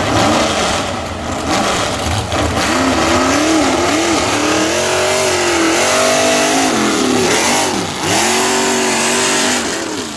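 Mud truck engine revving hard, its pitch climbing and falling again and again over a loud, steady hiss, then easing off near the end.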